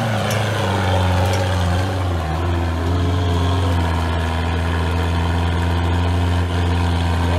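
Range Rover Classic engine idling steadily.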